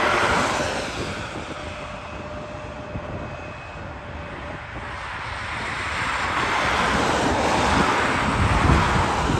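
Jet airliner engine noise, fading over the first few seconds and then rising again, loudest near the end.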